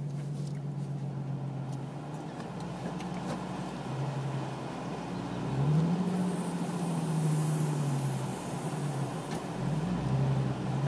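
Nissan 350Z's V6 engine idling, then rising in pitch about six seconds in as the car pulls away and easing back, with a second short rise near the end.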